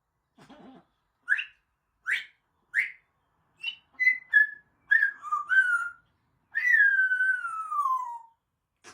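African grey parrot whistling: three short chirps, then a quick run of whistled notes, ending in one long falling whistle.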